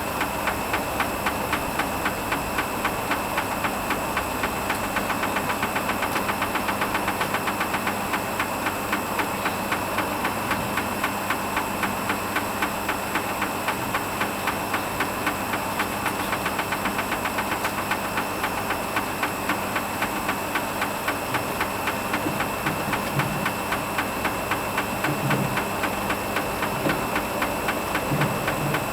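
Hoover Vision HVP16 washing machine running its Silks programme: the motor hums steadily under a fast, even mechanical ticking.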